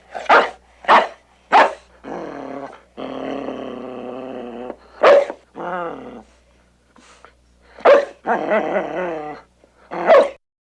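A dog barking and growling: four quick sharp barks, then long, steady growls broken by single barks.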